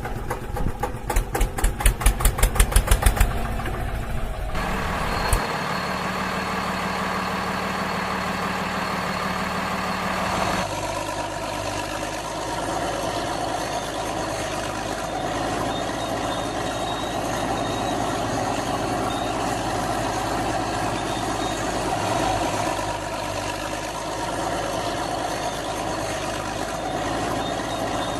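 Heavy vehicle's diesel engine running: a rapid, rhythmic chugging that grows louder over the first three seconds, then a steady engine drone that changes abruptly about four and ten seconds in.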